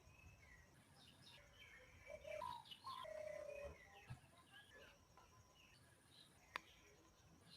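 Several birds chirping and calling with short whistled and gliding notes, busiest and loudest about two to four seconds in; a single sharp click near the end.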